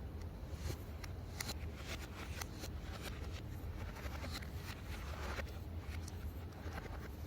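Irregular small clicks and a brief scrape of small parts being handled during a parts replacement, over a steady low hum.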